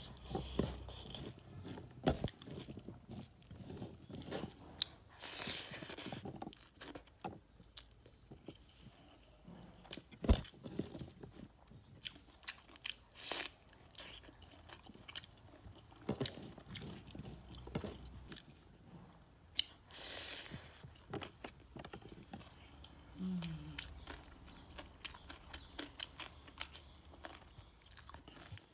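A person eating rice and pork curry by hand, chewing close to the microphone: wet mouth clicks and crunches with a few louder bites scattered through.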